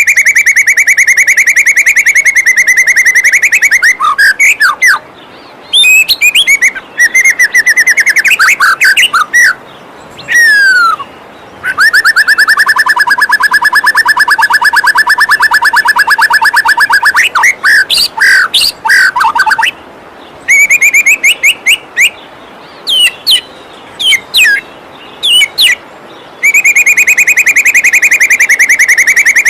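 White-rumped shama (murai batu) song: long, fast, buzzy trills alternating with quick rising and falling whistled phrases and short pauses. A waterfall rushes steadily beneath.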